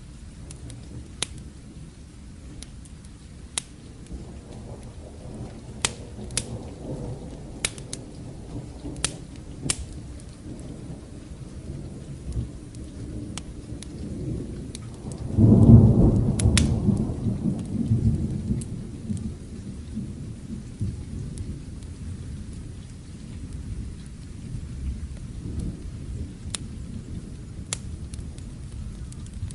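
Steady rain with scattered sharp crackles of a wood fire. About halfway through, a roll of thunder sets in suddenly, loud and low, and rumbles away over several seconds.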